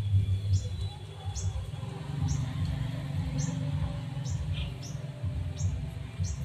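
A small bird chirping: short, high, falling chirps repeated about once a second, over a steady low rumble.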